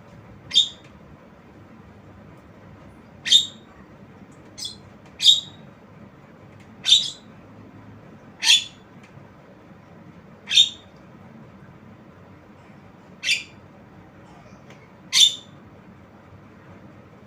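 Javan myna giving short, high-pitched calls, about nine in all, one every couple of seconds.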